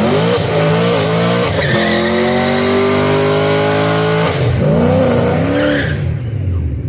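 High-revving sport motorcycle engine run hard, its pitch climbing in steps with breaks about one and a half and four seconds in, then dying away near the end.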